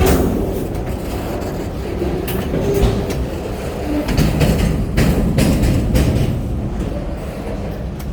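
Freight train cars rolling past: a steady low rumble with the wheels clacking now and then over rail joints.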